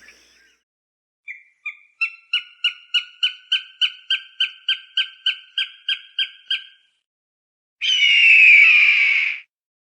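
Hawk calling: a rapid run of short, repeated notes, about three a second for some five seconds, then after a pause one loud, harsh scream that falls in pitch.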